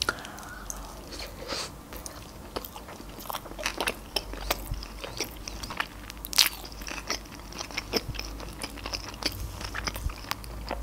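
Close-miked mouth sounds of a person biting into and chewing a sushi roll: many short, sharp wet clicks and smacks.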